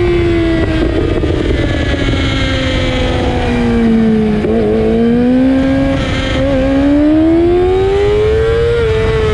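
Yamaha YZF-R6's 600cc inline-four running through an Akrapovic exhaust with the dB-killer removed. The revs fall steadily for about four seconds, wobble briefly, then climb again over the next four seconds.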